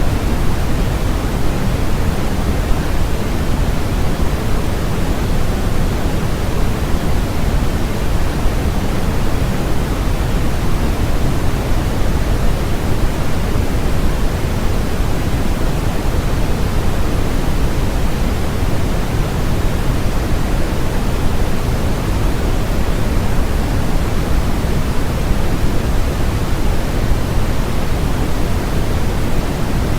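Steady generated noise played as a sleep and focus sound: a constant, unbroken hiss with its weight in the low end. It runs evenly, with no changes or events.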